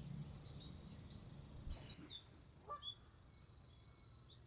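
Faint birdsong: scattered short chirps and whistles, with a fast trill of about a dozen repeated notes about three seconds in.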